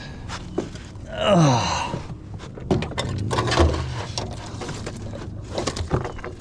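Knocks and thumps against a small aluminum boat while a freshly landed catfish is handled aboard, with a deep thud about halfway through. About a second in there is one loud pitched sound that slides steeply down in pitch.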